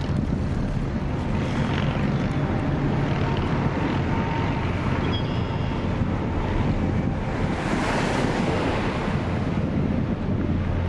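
Strong wind buffeting the microphone, a steady rush of noise that swells into a stronger gust about eight seconds in.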